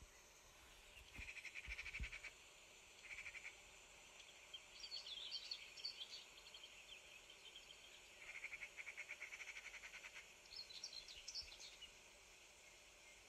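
Faint songbird song: rapid pulsing trills alternating with higher chirping phrases, repeated several times. A few soft low thumps come about two seconds in.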